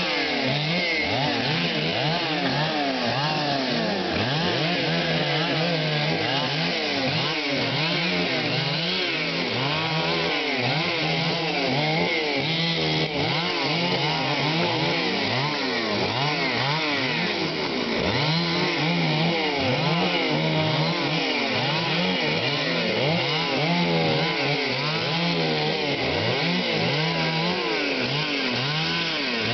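Chainsaw running without a break, its engine speed rising and falling over and over.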